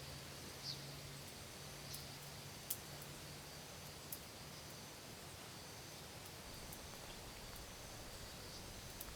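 Faint outdoor ambience: a quiet even hiss with a few small clicks and a brief high chirp about a second in.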